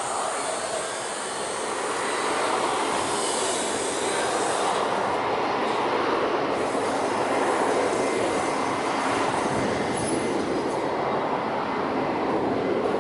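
Jet airliner engines: a loud, steady roar of rushing noise that swells slightly about two seconds in, then holds.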